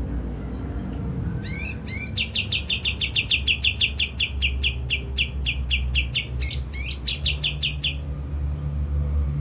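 White-shouldered triller (kapas tembak) singing: a couple of rising sweeping notes, then a fast trill of repeated notes, about six a second, that stops about eight seconds in. A steady low hum runs underneath.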